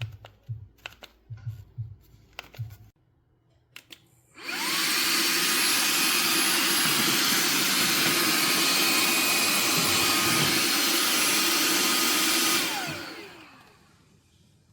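Shark WandVac handheld vacuum switched on: after a few light handling clicks, the motor spins up with a rising whine, runs steadily for about eight seconds, then is switched off and winds down with a falling whine.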